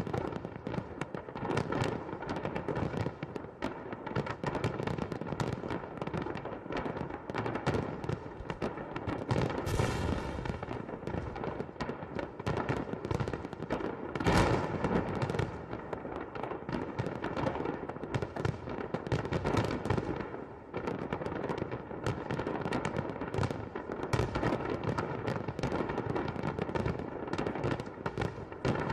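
Aerial fireworks bursting in a dense, continuous barrage of bangs and crackles, with one louder bang about halfway through.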